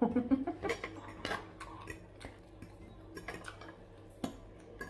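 Utensils clicking and tapping against plates and dishes at irregular intervals during a meal, with a short murmur of voice right at the start.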